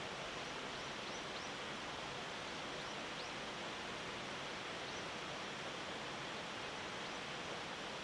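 Steady outdoor background hiss, with several faint, short high chirps from small birds in the first five seconds.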